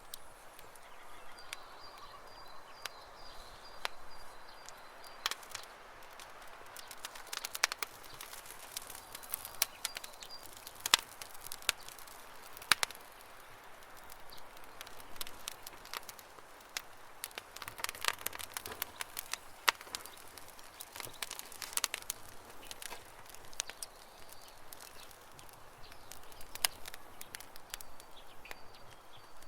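Campfire crackling, with irregular sharp pops of wood over a soft hiss, and birds chirping faintly.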